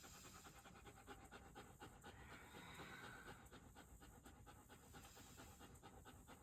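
Dog panting faintly, a quick, even rhythm of breaths.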